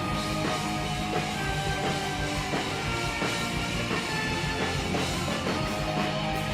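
Live rock band playing an instrumental passage: electric guitars and bass over a steady drum kit beat.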